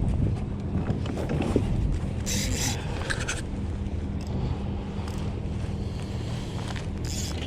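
Steady wind rumble and water noise around a kayak, with two brief hissing scrapes, one about two seconds in and a shorter one near the end.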